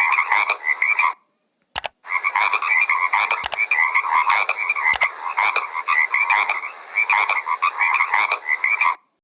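An animal's rapid pulsed calls, several pulses a second, breaking off briefly about a second in and then running on almost without pause until near the end.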